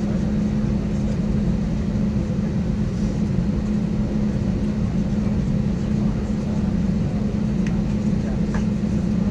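Steady cabin noise inside an Airbus A320 on the ground: a constant rush of air with a strong low hum.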